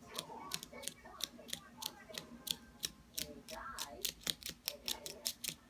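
Pet bird making rapid sharp clicks, about four a second, with soft warbling chatter between them.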